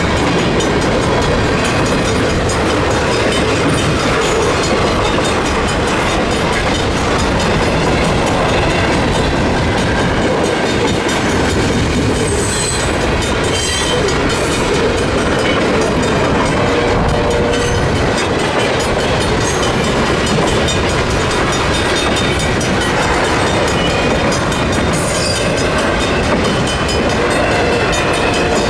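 Freight cars of a CN freight train rolling steadily past at a level crossing, wheels clicking over the rail joints, with a few brief high squeals from the wheels. The crossing's mechanical warning bell keeps ringing as the train goes by.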